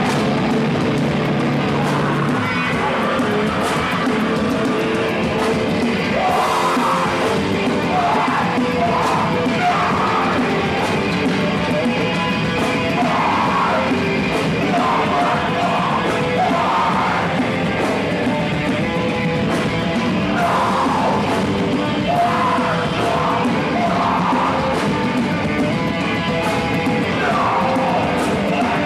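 Live rock band playing loud distorted guitars and drums, with shouted vocals coming in about seven seconds in.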